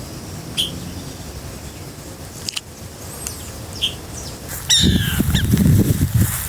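Wild birds calling: scattered short, high chirps, then a louder, harsher call of several falling notes about five seconds in. A loud low rumble starts at the same moment and runs on.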